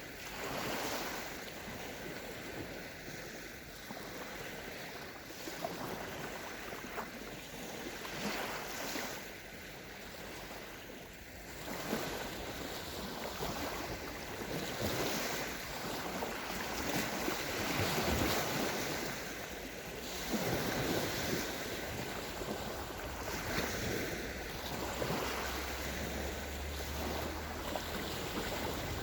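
Small sea waves of the Sea of Azov washing onto a sandy shore, the surf swelling and ebbing every few seconds, with wind buffeting the microphone.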